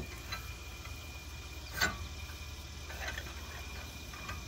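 A few sharp metallic clicks of a wrench and extension working on a seized front brake bolt, the loudest about two seconds in, over a steady low hum and a faint high whine.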